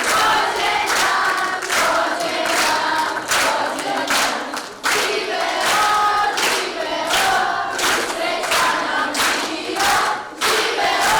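Many voices singing together over a steady beat of about two sharp strokes a second.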